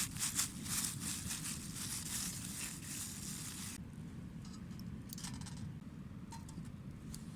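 Dense crinkling and rustling handling noise that stops suddenly about four seconds in, leaving a few light clicks over a steady low rumble.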